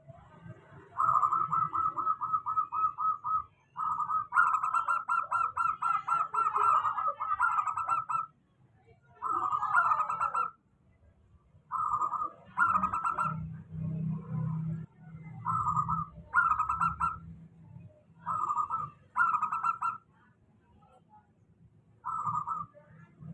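Zebra dove (perkutut) singing: rapid strings of staccato cooing notes, about five a second, in two long runs over the first eight seconds, then shorter bursts of a few notes every second or two. A low hum sits underneath, louder in the middle.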